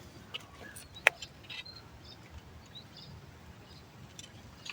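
A single sharp click or snap about a second in, with a few short high chirps over a faint, steady outdoor hiss.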